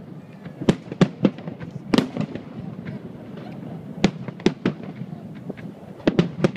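Aerial firework shells bursting overhead: sharp bangs in quick clusters, about a second in, near two seconds, around four seconds and again near the end, with a short lull in between.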